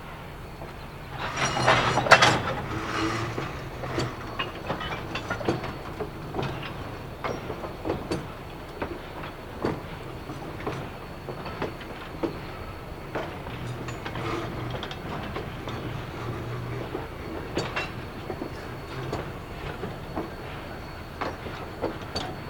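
A train of empty narrow-gauge log cars rolling along the track, wheels clicking irregularly over rail joints under a steady low rumble, with a louder burst of noise about a second in.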